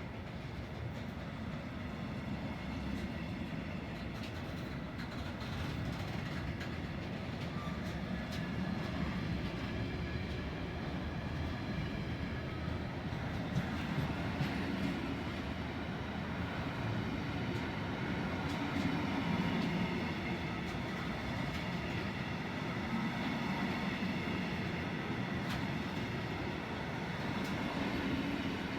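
A train rolling past steadily, its wheels rumbling on the track, rising and falling slightly in loudness.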